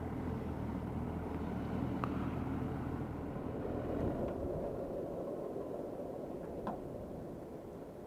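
Motorcycle engine running at low speed, a steady low hum that weakens after about four seconds and slowly fades, with a few faint clicks.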